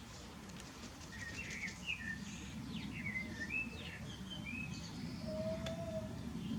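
Small birds chirping in a string of short calls over a steady low rumble, with one brief steadier, lower note a little past five seconds in.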